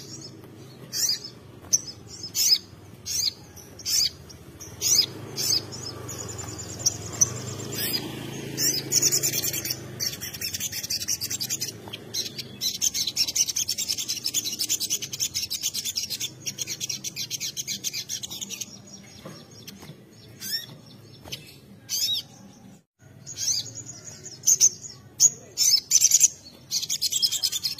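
Songbirds singing: short high chirps repeated about twice a second, then a long, fast, dense high trill lasting about ten seconds, with more chirps and trilling near the end.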